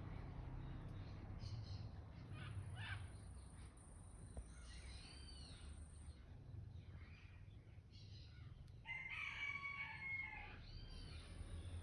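Faint outdoor birdsong with scattered short calls, and a rooster crowing once near the end, a pitched call lasting under two seconds. A thin, high, steady tone comes and goes in the background.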